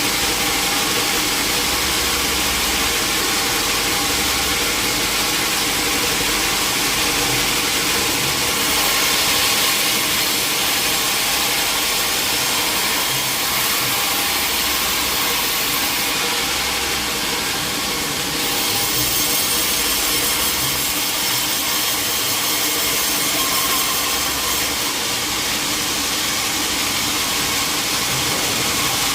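Sawmill saw running and cutting through a log over a steady machine engine, the high-pitched cutting noise swelling and easing several times.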